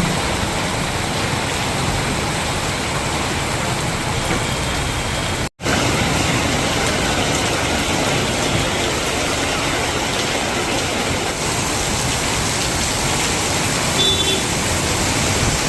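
Heavy monsoon rain pouring down in a steady, even hiss. The sound drops out for an instant about five and a half seconds in.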